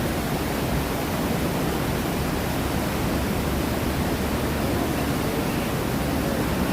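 Steady, even rush of falling and churning water from the man-made waterfalls and rapids of a theme-park river ride.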